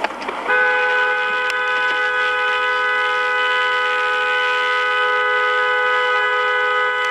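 Car horn held down in one long, steady blast that starts about half a second in and does not break.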